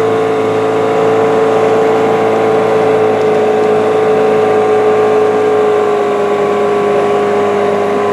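Boat engine running steadily under way: a constant, even drone that holds one pitch.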